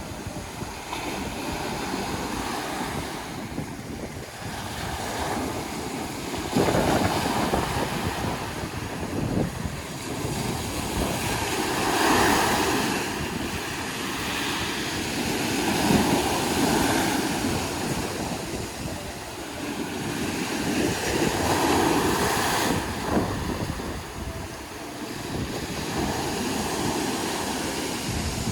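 Small sea waves washing onto the shore, swelling and falling back every few seconds, with some wind rumble on the microphone.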